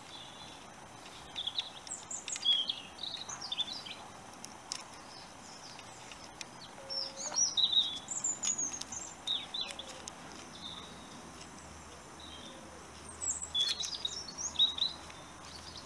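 Birds chirping and singing: short, high, quick chirps come in three spells, over a steady background hiss. A few faint clicks fall in between.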